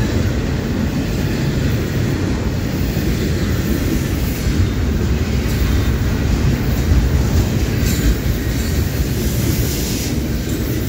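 Double-stack intermodal container train passing at close range: steady noise of its well cars' steel wheels rolling on the rails.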